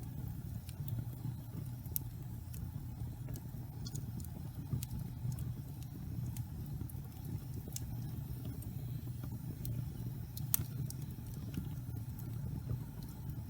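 Wood fire burning in a fireplace: a steady low rumble of flames with scattered sharp crackles and pops, the loudest pop about ten and a half seconds in.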